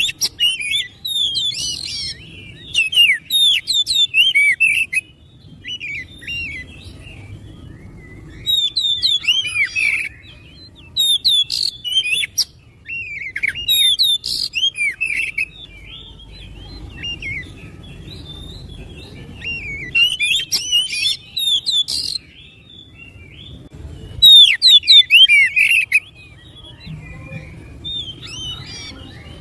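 Oriental magpie-robin (kacer) singing: phrases of rapid, varied sliding whistles and chirps, each a second or two long, repeated with short pauses between them, over a faint low hum.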